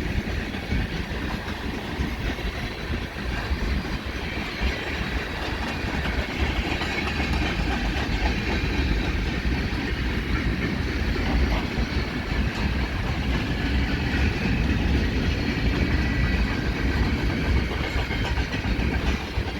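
Freight train cars rolling past at slow speed: a steady rumble of wheels on the rails.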